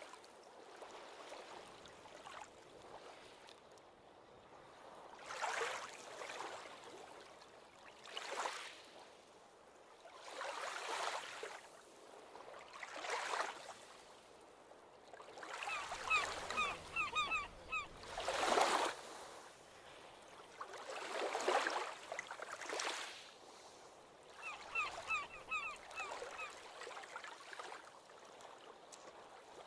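Ocean waves breaking and washing up the beach every few seconds. A bird calls twice in quick runs of short notes, about halfway through and again near the end.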